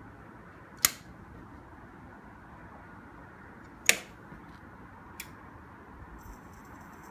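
Two sharp clicks about three seconds apart, then a fainter tick: the power switch of a Lincoln PowerMig 210 MP MIG welder being flipped, with no fan or hum starting up, as the welder won't turn on.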